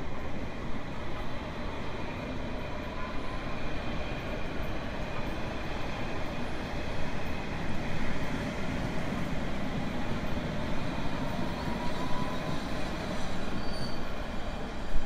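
Train running on rails: a steady rumble with faint high squealing tones from the wheels that come and go.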